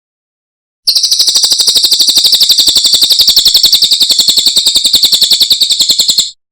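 Cililin songbird singing a rapid, even trill of high notes, about a dozen a second, for about five seconds; it starts abruptly about a second in and cuts off sharply near the end.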